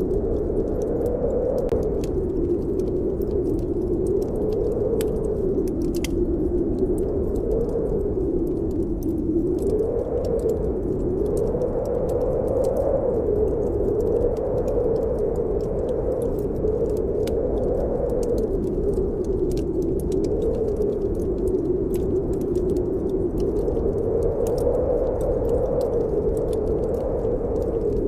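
Snowstorm wind blowing in a steady, slowly wavering whoosh, with a wood fire crackling in scattered sharp pops over it.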